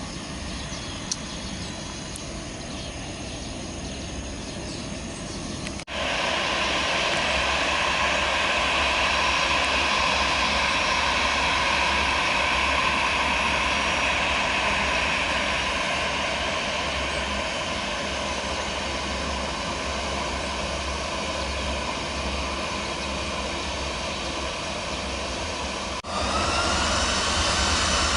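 Jet airliner engines: a quieter steady engine noise at first, then, after a sudden cut about six seconds in, a louder steady jet roar, and near the end, after another sudden cut, a jet engine whine rising in pitch as the engines spool up.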